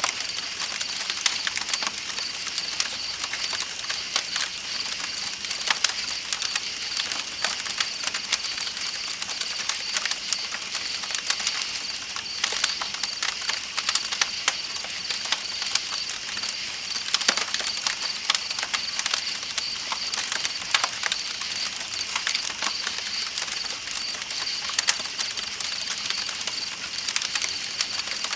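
Campfire crackling with frequent irregular sharp pops, over a steady high-pitched chirping of night insects and the hiss of flowing river water.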